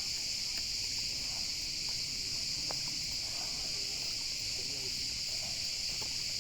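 Steady high-pitched chorus of insects shrilling without pause, with faint chirps underneath.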